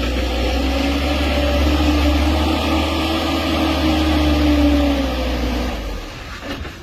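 A truck's engine running steadily with a deep rumble and a slightly wavering hum, which fades away near the end.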